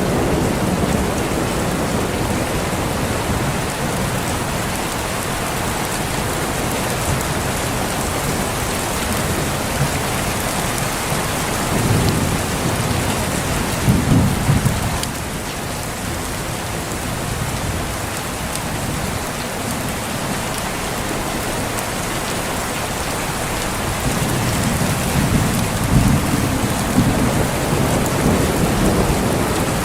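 Steady heavy rain with rolling thunder. Low rumbles swell about twelve seconds in, peak and fade about three seconds later, then build again near the end.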